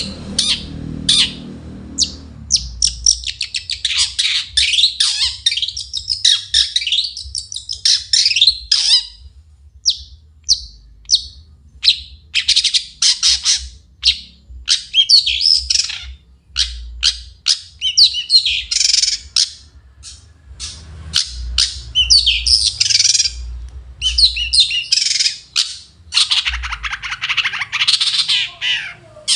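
Long-tailed shrike (cendet) singing a fast, varied song of high chattering and harsh scratchy notes in short phrases with brief pauses. Near the end comes a longer, denser harsh rattle.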